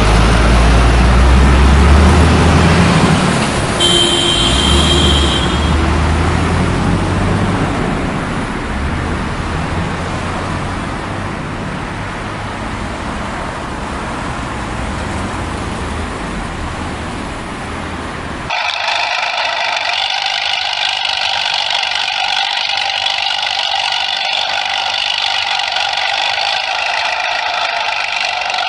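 Truck engine running with a deep rumble that slowly fades, with a brief high tone about four seconds in. About eighteen seconds in it cuts off suddenly and gives way to a steady, higher whirring hum.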